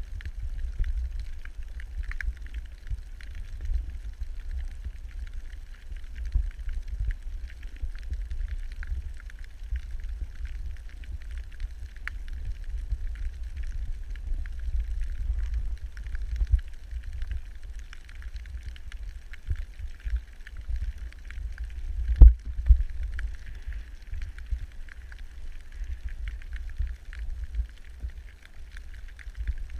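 Underwater recording: an uneven low rumble of water moving around the camera, with a faint crackling hiss above it and a single louder knock about 22 seconds in.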